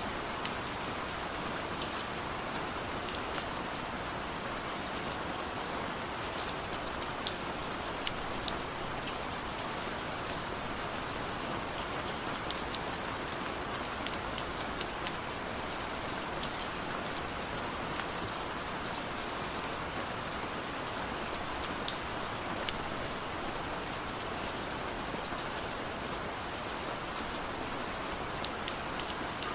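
Steady rain falling on a surface: an even hiss with many sharp drop ticks scattered through it. No thunder.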